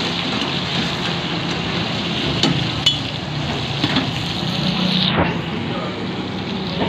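Chicken pieces with tomatoes sizzling and frying in a steel karahi, stirred with metal tongs that click against the pan a few times.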